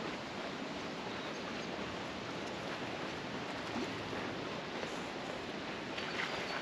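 Steady outdoor background noise, an even hiss with no single clear source, and a few short high sounds near the end.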